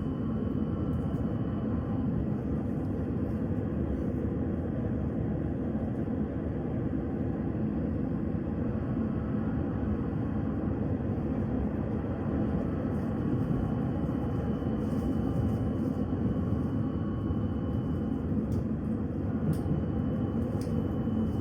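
Steady rumble inside a PKTS 71-931M Vityaz-M low-floor tram, with a faint, thin high tone above it and a few light clicks near the end.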